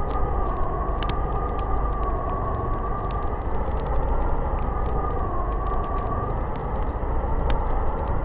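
Snowstorm wind blowing steadily, with a high howl that slowly wavers up and down in pitch over a deep rushing noise, and scattered faint ticks.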